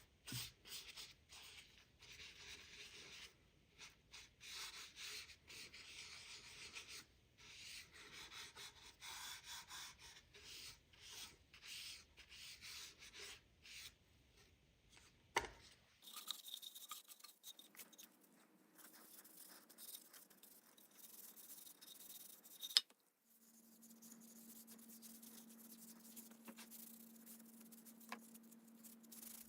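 Faint, irregular rubbing strokes on wood by hand, in several short cut segments. A faint low steady hum joins in for the last few seconds.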